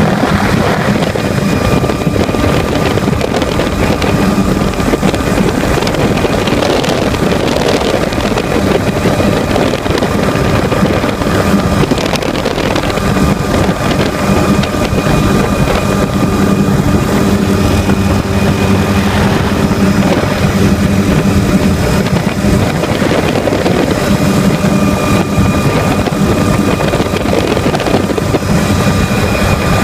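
Helicopter cabin noise: a loud, steady engine and rotor drone with a constant whine, and wind on the microphone.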